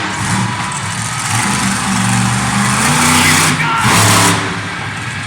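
Monster truck engine revving hard under a loud wash of noise. Its pitch climbs from about two seconds in, then drops back near four seconds.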